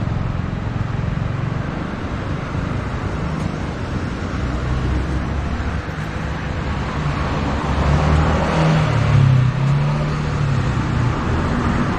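Street traffic, with engines running steadily; one vehicle's engine grows louder about eight seconds in and passes close.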